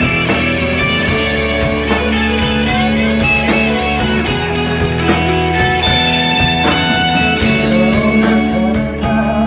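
Rock band playing live: electric guitars ringing out held notes over bass and a drum kit keeping a steady beat.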